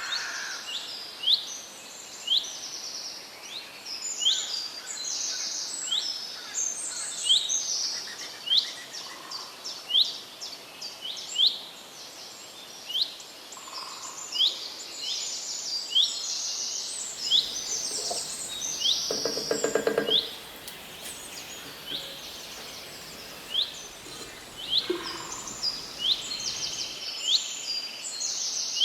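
Small birds chirping over and over, short sharp rising and falling notes in quick succession. A brief, fast low rattle is heard about two-thirds of the way through.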